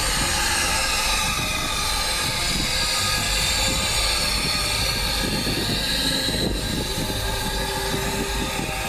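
A train running steadily, a continuous rail rumble with faint high-pitched tones that drift slowly in pitch.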